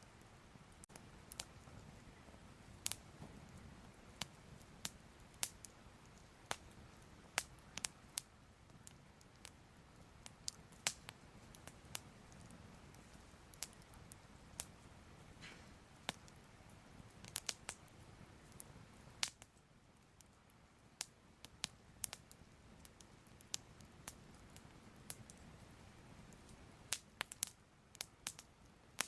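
Fire crackling softly: irregular sharp pops and snaps, a few every second, over a steady low rumble of burning.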